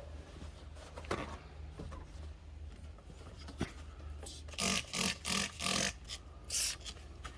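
A quick run of about five short rasping strokes, from hand-cleaning work on a car's dashboard.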